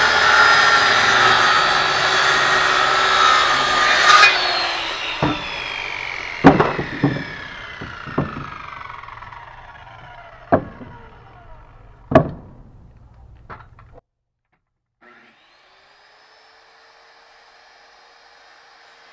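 Circular saw cutting through a wooden board, then released about four seconds in: the blade whines down in pitch over several seconds while loose wood knocks and clatters a few times. After a brief dropout, a motor spins up again and runs steadily, much quieter.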